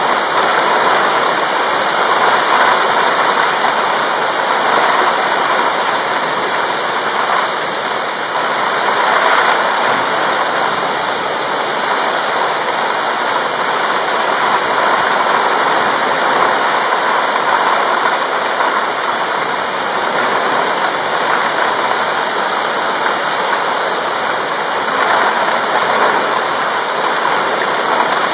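Heavy rain pouring down steadily, an even, dense hiss.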